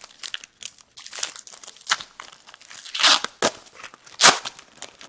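Foil trading-card pack wrappers being torn open and crinkled by hand, in irregular rustling bursts, the loudest about three and four seconds in.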